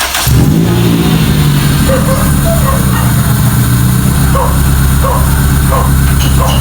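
Toyota Corolla's 4A-FE inline-four engine catching and starting, its pitch flaring briefly and then settling into a steady idle.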